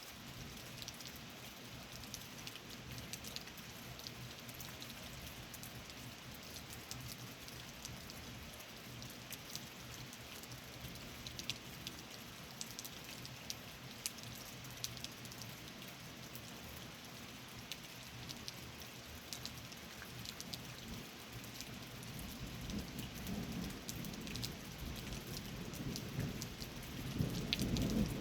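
Steady rain with scattered sharp drip ticks. A low thunder rumble swells in during the last few seconds and gets louder toward the end.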